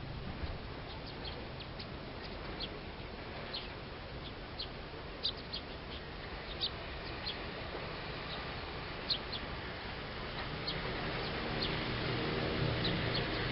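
Wild small birds giving short, sharp, high chirps, scattered every half second to a second, over steady background noise. About eleven seconds in, a low steady droning sound grows louder underneath.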